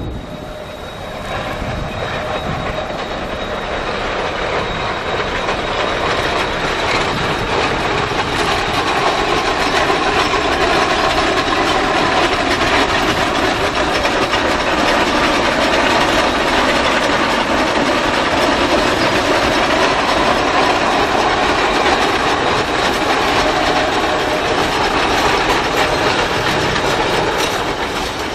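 Narrow-gauge steam-hauled train rolling past at close range: steel wheels clattering over the rail joints as the locomotive and cars go by. The sound builds over the first several seconds, then holds steady.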